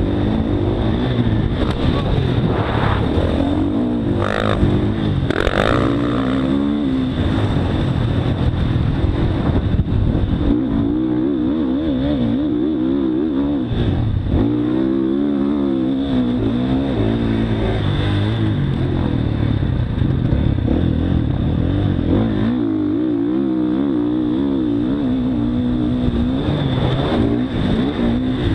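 Motocross dirt bike engine revving up and down repeatedly as it is ridden around the track, the pitch climbing and dropping every few seconds.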